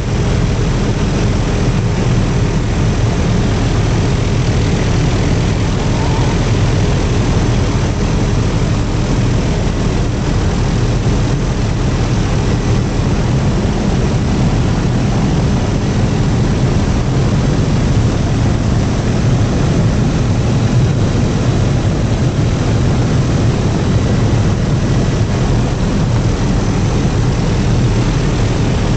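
Helicopter engine and rotor noise heard from inside the cabin in flight: a loud, steady, low drone with faint steady tones above it, unchanging throughout.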